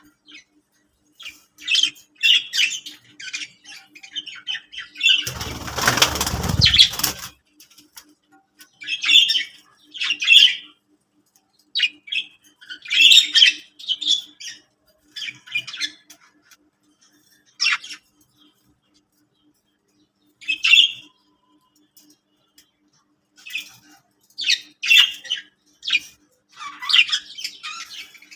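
Budgerigars chirping and chattering in short, scattered bursts, with a loud flurry of wing flapping lasting about two seconds, about five seconds in.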